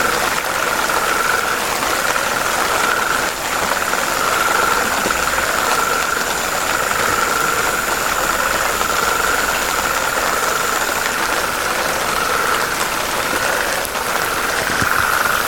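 Dense chorus of frogs calling continuously, a steady pulsing trill at one pitch over a thick wash of calls. A thin, high steady tone runs beside it and stops about eleven seconds in.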